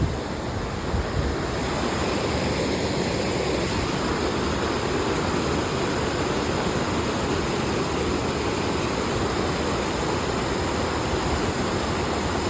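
Waterfall: a steady rush of falling water that swells slightly about a second and a half in and then holds even.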